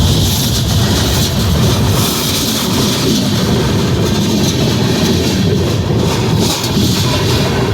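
Freight train rolling past close by, its steel wheels on the rail making a loud, steady rumble with a hiss over it.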